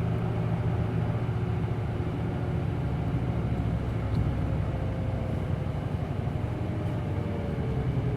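Hino Blue Ribbon City Hybrid city bus running, heard from inside the passenger cabin: a steady diesel engine drone. A faint whine glides slowly down in pitch near the end.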